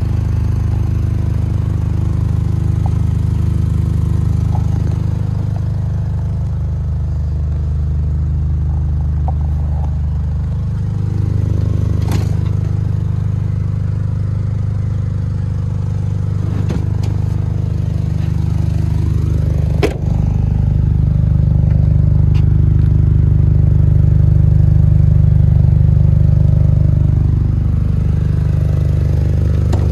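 Supercharged 1.6-litre four-cylinder engine of a 2006 Mini Cooper S JCW idling with a steady low hum. A few sharp clicks, and one knock about two-thirds of the way through.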